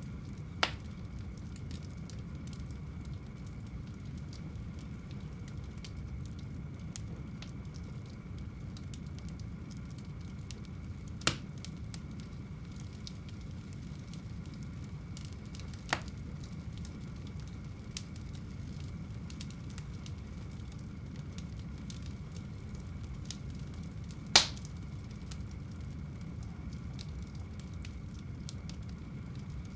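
Fire burning in a home fireplace with a steady low rumble and soft crackling. Four sharp pops are scattered through it, the loudest about three-quarters of the way in.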